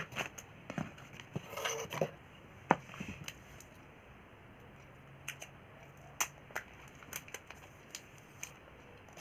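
Handling of phone-box accessories and packaging: a brief rustle of paper or plastic about one and a half seconds in, a sharp tap just before three seconds, then scattered light clicks and knocks.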